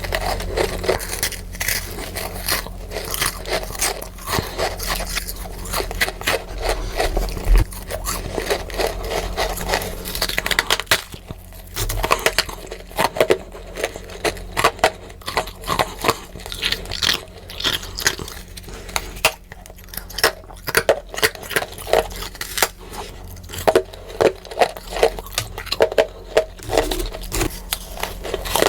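Close-miked biting and chewing of freezer frost: a dense run of crisp, crackly crunches, coming as more separate chomps in the second half. The playback is sped up.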